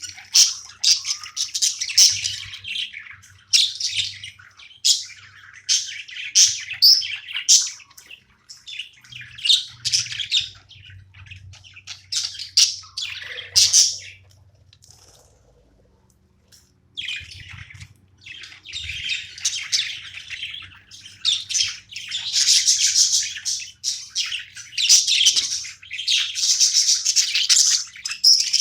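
Pet budgerigars chirping and chattering in quick, high-pitched runs. The chirping drops away for a few seconds about halfway through, then starts up again.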